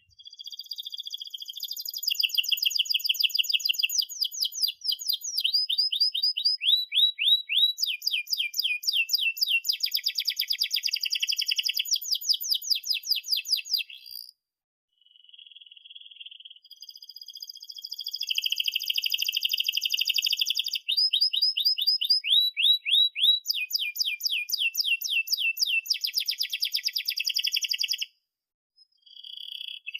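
Domestic canary in full song: long rolling trills and fast runs of repeated chirps and downward-sweeping notes. Two long phrases, each broken off by a short pause, about halfway and near the end.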